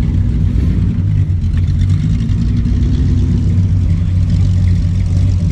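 Car engine running at low speed with a steady, deep note.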